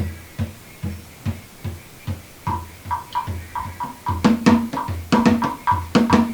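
Instrumental break in a song: steady low drum beats, about two to three a second. A higher pitched percussion line with sharp clicks joins part way through, and the rhythm grows busier toward the end.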